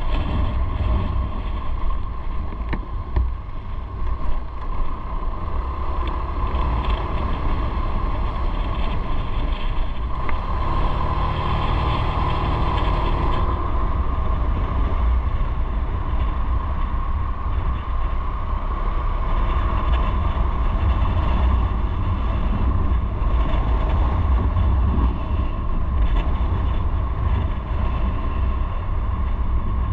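Motorcycle under way: steady engine and road noise over a heavy low rumble of wind on the microphone, growing louder and brighter from about ten to thirteen seconds in.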